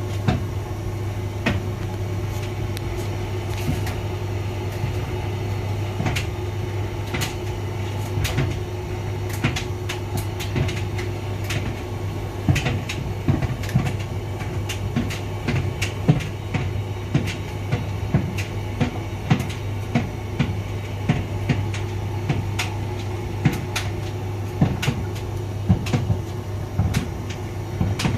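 Hotpoint vented tumble dryer running: a steady low motor hum with frequent irregular clicks and knocks as the drum turns the load.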